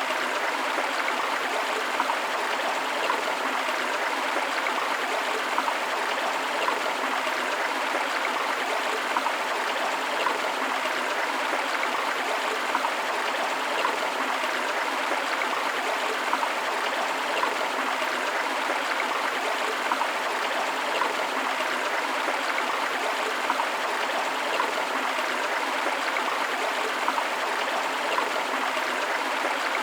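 River water flowing: a steady, even rush with small, frequent splashes and no change throughout.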